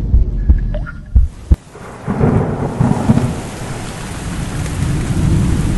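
Thunderstorm: heavy rain with low rolling thunder, swelling in about a second and a half in after a few low thumps.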